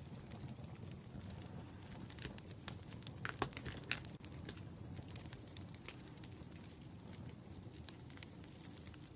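Wood fire crackling: a steady low rumble of burning logs with scattered sharp pops and snaps, a few louder pops about three to four seconds in.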